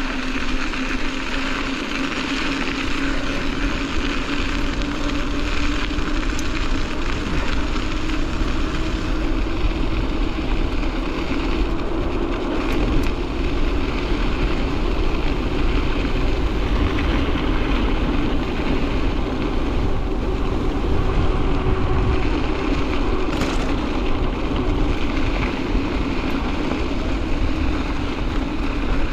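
Strong wind buffeting the microphone during a mountain bike ride, with a steady hum from the bike's rolling tyres that rises a little in pitch partway through and then falls back.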